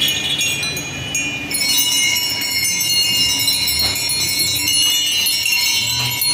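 Many metal temple bells ringing over one another, a dense mass of high ringing tones with new strikes coming in all the time.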